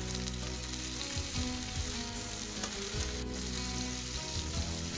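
Squid pieces sizzling in hot oil in a wok, with a metal spatula stirring and scraping now and then. Background music with held notes plays underneath.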